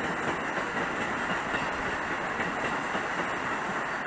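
Train running along the tracks: a steady rolling rumble of wheels on rails with a faint clickety-clack.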